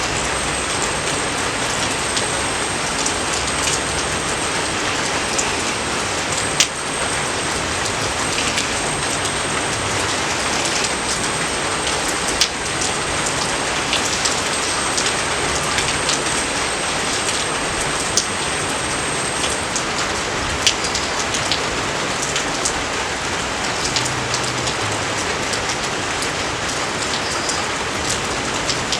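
Steady rain falling, with now and then a sharper, closer drop hit standing out from the patter.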